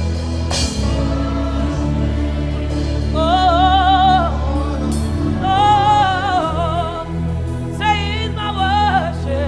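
Live gospel worship music: a band keeps a steady accompaniment while a voice sings three long held phrases with vibrato.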